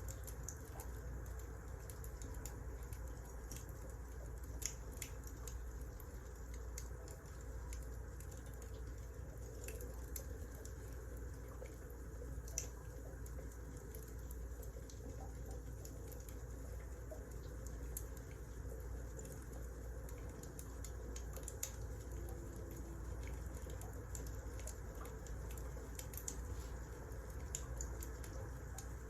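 Wood fire crackling: a steady low rumble with scattered sharp pops and snaps, two of them louder, about five and twelve seconds in.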